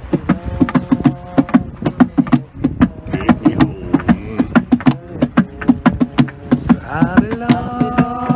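Voices singing long held notes over fast, uneven rhythmic percussion, several sharp strokes a second; a new sung note comes in about seven seconds in.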